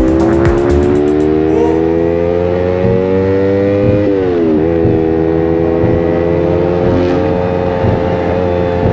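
Motorcycle engine running under way, its pitch climbing slowly as it speeds up. About four seconds in the pitch drops briefly, then the engine holds a steady note.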